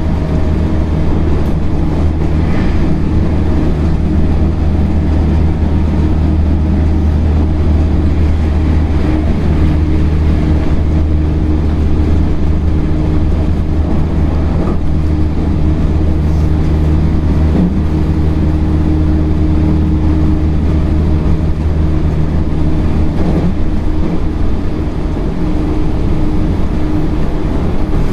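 Running noise of a JR 313 series electric train, heard from inside the carriage: a steady, loud low rumble of wheels on rail with a constant hum, the train holding an even speed.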